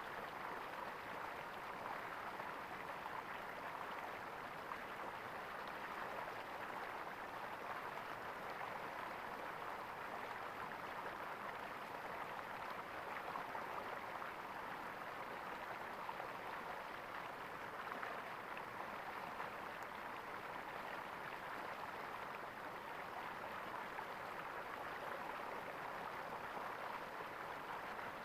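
Running water in a stream, gurgling steadily and evenly.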